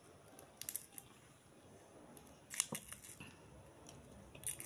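Mouth sounds of someone eating soft, juicy soursop flesh: quiet chewing with a few sharp wet clicks and smacks, the loudest a little past halfway.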